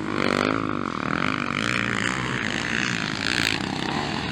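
Several motocross bikes' engines revving hard around the track, their pitch rising and falling with each throttle change.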